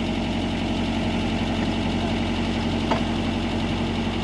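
Mitsubishi MS030 mini excavator's diesel engine idling steadily, with one short high squeak about three seconds in.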